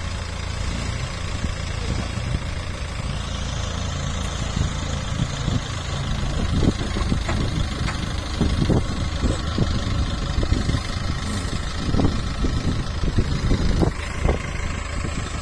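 Diesel engine of a heavy working machine, a backhoe loader or tractor, running steadily at a low, idling pace. Scattered short knocks come through in the second half.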